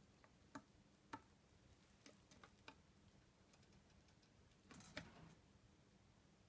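Near silence: room tone with a few faint scattered clicks and a brief soft rustle about five seconds in.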